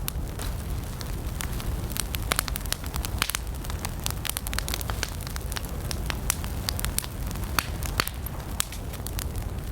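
Wood fire burning: a steady low rumble of flames with frequent irregular crackles and pops of burning wood.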